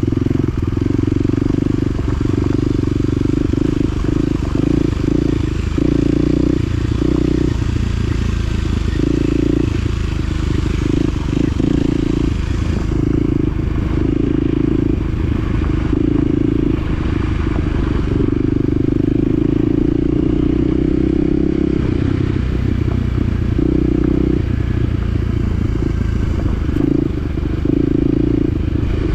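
Side-by-side UTV engine running continuously on a rough trail, its note swelling and dropping every second or so with the throttle, over a steady low rumble and some clatter.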